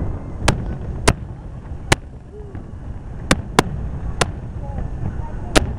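Fireworks display: aerial shells bursting, seven sharp bangs at uneven intervals over a steady low rumble.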